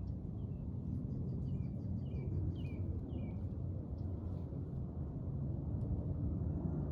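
Wind rumbling on the microphone, with a bird calling in a run of short, falling chirps during the first half.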